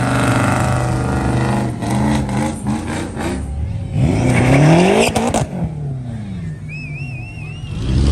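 Car engines on a cruise strip: one engine runs with some throttle changes, then about four seconds in a car accelerates hard past, its engine pitch climbing and then dropping sharply as it goes by. A short warbling high tone sounds near the end.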